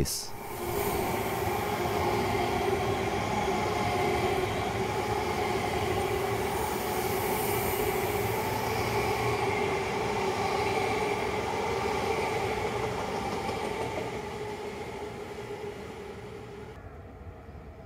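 Double-deck electric regional train (Stadler KISS multiple unit) passing beneath and running through the crossover onto the right-hand track, a steady rumble of wheels on rail with an electric hum. It fades away over the last few seconds as the train moves off.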